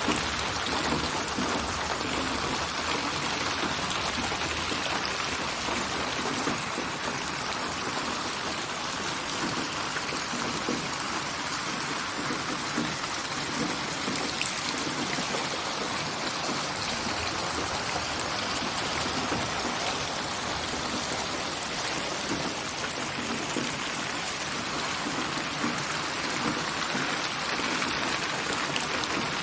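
Steady rain, a dense patter of drops on a surface, even and unbroken.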